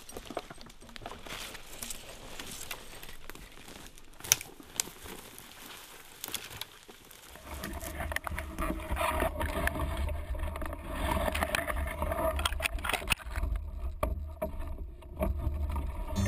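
Footsteps and twigs and brush crackling underfoot, with scattered sharp snaps, while pushing through thick forest undergrowth. About seven seconds in this gives way to a steady low rumble with louder, denser sound over it.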